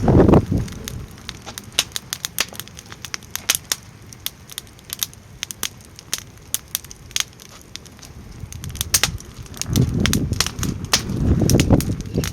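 Wood fire in a small fire pit crackling and popping, with sharp irregular snaps throughout. Gusts of wind buffet the microphone at the very start and again from about three-quarters of the way in.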